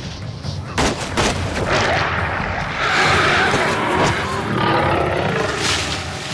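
Film action sound effects: a few sharp gunshots in the first two seconds, then a loud, rough roar like a large beast's from about three to five and a half seconds in.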